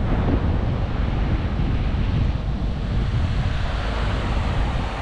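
Wind buffeting the microphone on a ferry's open top deck: a steady rushing noise with a heavy low rumble.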